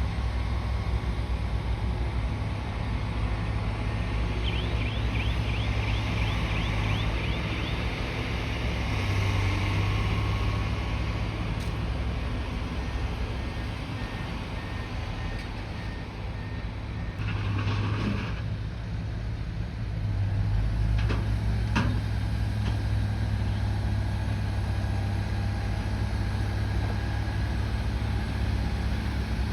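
Bulldozer's diesel engine running steadily, swelling louder twice, with a run of short high squeaks about five seconds in and a brief rattle around eighteen seconds in.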